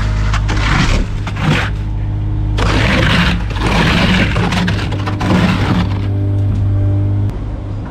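A large engine running steadily under load, with repeated bursts of scraping and rushing noise over it, typical of concrete sliding and being worked during a pour; the engine hum drops away sharply near the end.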